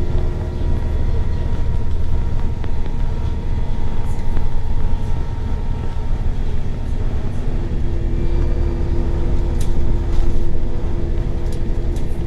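Scania L94UB natural-gas bus running, heard from inside the cabin: a steady low engine and road rumble with light rattles, and a steady whine that comes in about two thirds of the way through.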